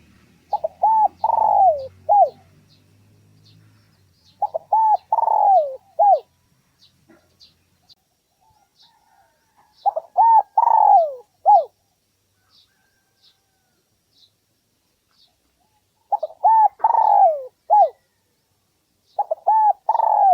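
Spotted dove cooing: five phrases of several quick coos each, the middle note sliding down, repeated every few seconds.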